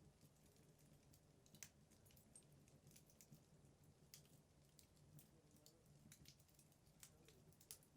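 Wood logs burning in a fireplace, crackling faintly with scattered irregular sharp pops, a louder one about a second and a half in and another near the end, over a faint steady low hum.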